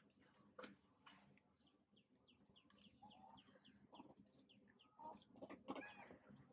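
Faint small-bird chirping: a run of short, high calls, with a louder, longer call about five and a half seconds in.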